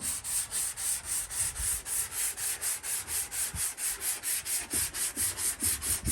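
Hand sanding on a car body panel: rapid back-and-forth strokes of sandpaper, about five a second, as the side of the car is smoothed down.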